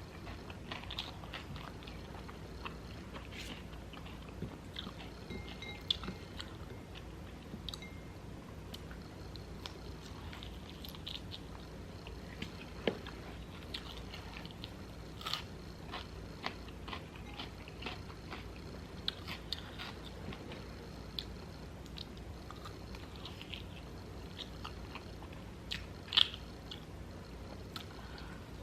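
A person chewing and biting food close to the microphone, with scattered short crunches over a steady low hum; one louder crunch comes near the end.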